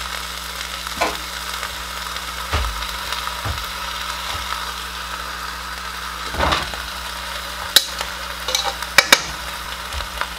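Diced potatoes frying in a pot with a steady sizzle, broken by a few knocks and sharp metallic clicks of a utensil against the pot and can, the sharpest near the end as a second block of canned corned beef goes in and a potato masher starts working it.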